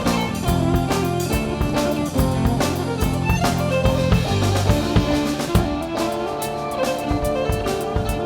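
Celtic folk-rock band playing an Irish jig: a fiddle melody over guitar and bass, driven by a drum kit with regular kick and snare hits.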